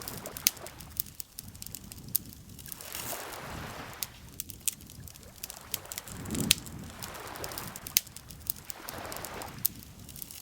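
Campfire crackling, with sharp irregular pops and snaps of burning wood, over gentle lake water lapping in slow swells every few seconds.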